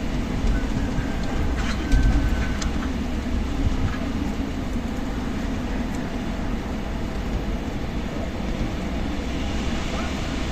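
Strong wind blowing with a steady low rumble of gusts buffeting the microphone.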